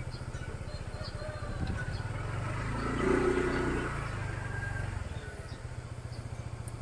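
Motorcycle engine running steadily at low revs, swelling briefly about three seconds in before settling back.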